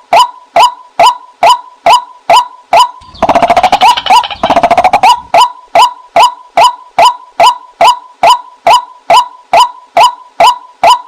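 Female white-breasted waterhen calling: a loud, steady train of short 'kwak' notes, about two a second. About three seconds in, a rapid rattling churr breaks in twice before the regular notes go on.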